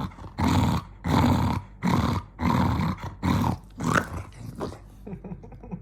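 Angry dog growling in a run of about six short bursts, one after another, stopping about four seconds in; faint clicks follow.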